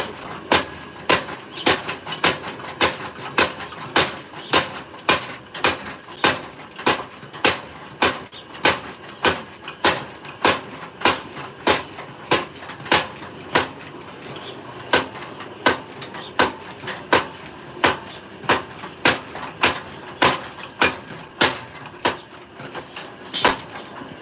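Blacksmith's hammer striking metal in a steady rhythm, about one and a half blows a second, each blow a sharp clang with a short ring.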